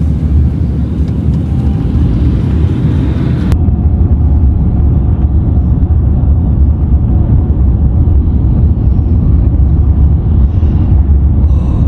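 Loud, steady low rumbling noise with a flickering level, heaviest in the bass; the higher hiss above it drops away abruptly about three and a half seconds in.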